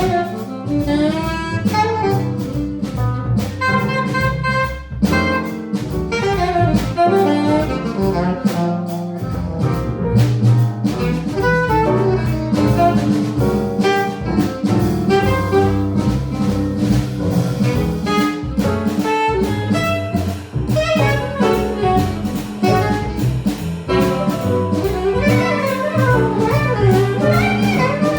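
Jazz combo playing an instrumental passage: a saxophone plays fast, busy lines over walking double bass, piano and drum kit with cymbals.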